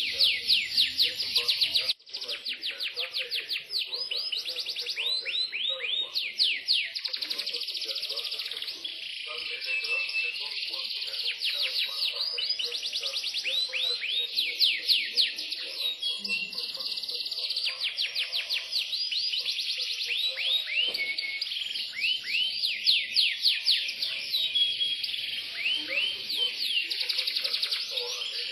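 Yorkshire canary singing a long continuous song of fast trills and rolls, each made of rapidly repeated falling notes, breaking off briefly about two seconds in.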